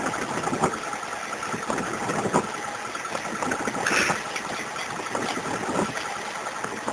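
Off-road vehicle's engine running at low revs as it crawls along a rutted track, with several short knocks and clunks from the vehicle over the bumps.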